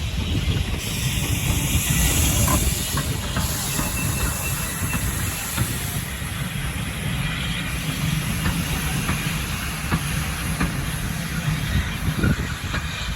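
Heritage steam train working close by: a low rumble with clanks and knocks from the wagons. A loud hiss of escaping steam starts about a second in and fades after a few seconds.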